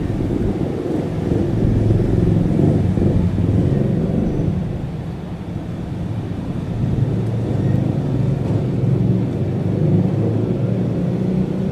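CN-295's twin turboprop engines droning steadily as the aircraft flies over. The sound is a low, even hum that swells and eases slightly.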